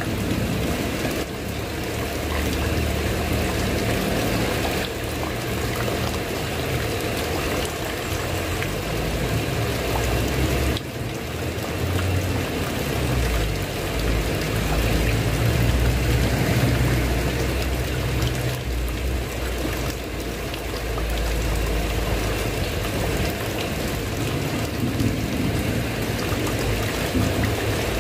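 Steady heavy rain falling on a tile roof, a dense even patter and hiss. A low rumble underneath swells and fades several times.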